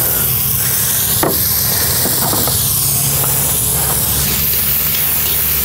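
Chopped onion and bell pepper sizzling steadily in hot oil in a cast-iron pot over wood embers, with a light tap about a second in.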